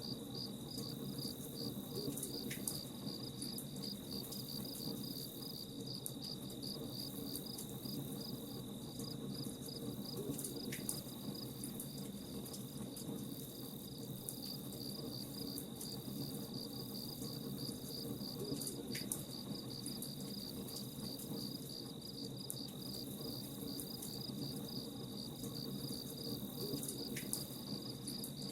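Crickets chirping in a fast, even pulse over a low steady rumble, with scattered faint crackling clicks from a campfire.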